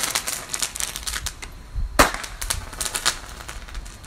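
Consumer fireworks going off: an irregular run of sharp crackling pops, with two louder bangs, one at the start and one about two seconds in. The crackling thins out near the end.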